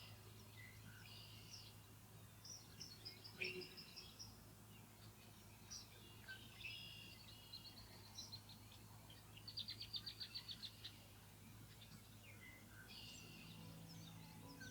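Birds chirping and calling faintly, with short trills and a quick run of about ten sharp, evenly spaced notes a little past halfway, over a low steady hum.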